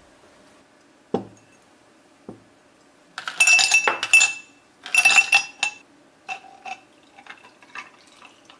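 Glassware clinking: a dull knock, then two quick rattling runs of clinks with a ringing glass tone, followed by a few lighter clinks.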